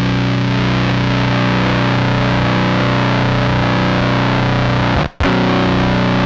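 Electric guitar through the AC Noises URLA's square-wave CMOS fuzz, a heavily distorted chord ringing out with a bright, buzzy top. It cuts off briefly about five seconds in, is struck again, and stops near the end.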